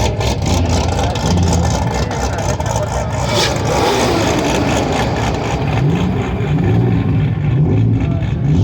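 Car engines running loudly as cars drive in, with an engine revving up several times in the second half, its pitch climbing in repeated rises.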